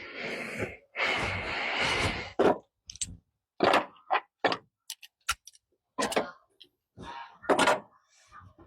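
Irregular clunks, clicks and rustles of hand work on a pickup's engine bay, handling spark plug wires and parts.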